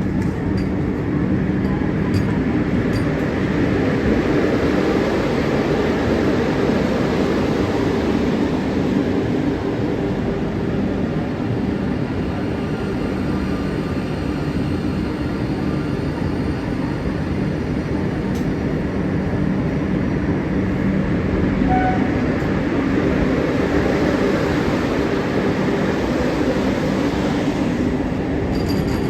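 Vande Bharat Express electric train set rolling into the station: a steady rumble of the train on the rails with a low hum.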